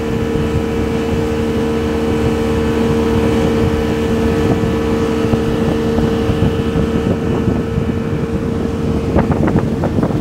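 Speedboat engine running at cruising speed with a steady drone, over the rush of wind on the microphone and water along the hull. Near the end a few short choppy knocks cut in, like the hull slapping on waves.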